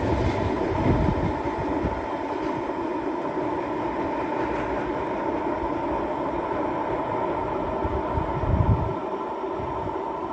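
Train running on the line past the platform: a steady rumble with humming tones over it, the deep rumble easing after about two seconds.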